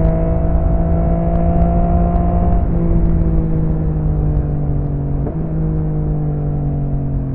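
Yamaha XSR900's three-cylinder engine running through an M4 aftermarket exhaust while riding, a steady note with two brief breaks, about a third of the way in and again past two thirds, after which the pitch slowly falls. Wind rumbles on the microphone underneath.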